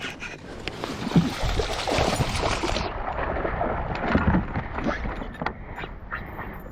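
Water sloshing and small knocks and clicks around a kayak, with wind noise on the microphone; a hiss drops away about three seconds in.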